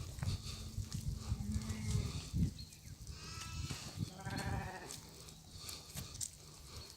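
Xalda sheep bleating several times: a low held call near the start, a higher call about three seconds in and another a second later. Between the calls there are rustling and crunching sounds of olive leaves and twigs as the flock feeds.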